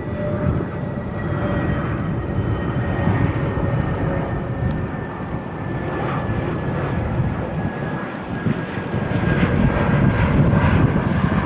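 Jet airliner's engines passing, a thin whine that slowly drops in pitch over a steady rumble that grows louder near the end.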